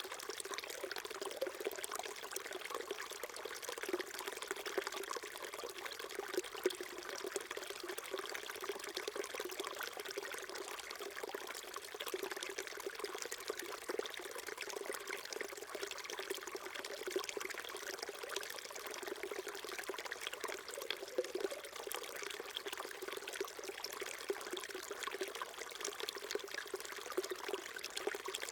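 Small mountain stream flowing and trickling over rocks, a steady babble with fine splashing and no change throughout.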